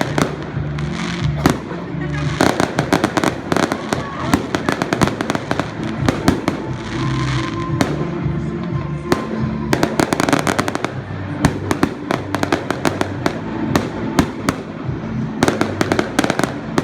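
Fireworks going off in rapid, dense strings of bangs and crackles, thinning briefly a couple of times before picking up again, with music playing underneath.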